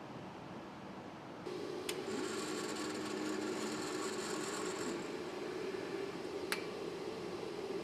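Machinery running with a steady hum and whir that starts about a second and a half in, with a higher whirring layer for a few seconds and two sharp clicks.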